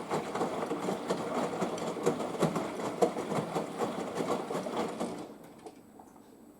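Front-loading washing machine tumbling laundry in rinse water: motor running with a rhythmic clatter of the drum and water sloshing. It stops about five seconds in.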